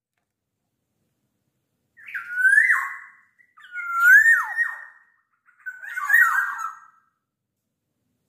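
Black-naped oriole singing: after a short silence, three loud, fluting whistled phrases about two seconds apart, each rising in pitch and then dropping away.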